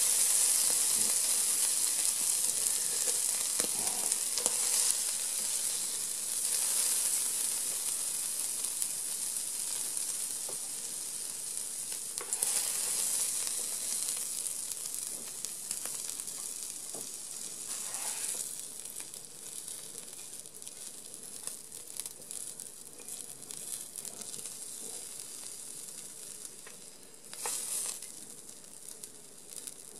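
Sliced deer tongue and asparagus sizzling in a hot pan while being stirred and scooped out with chopsticks and a spatula. The sizzle fades steadily as the pan empties, with a few brief louder moments of the spatula scraping the pan.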